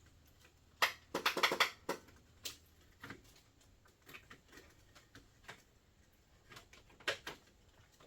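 Irregular clicks and rattles of hands working at the mower's wiring connection and relay, with a quick cluster of clatters about a second in and single clicks after.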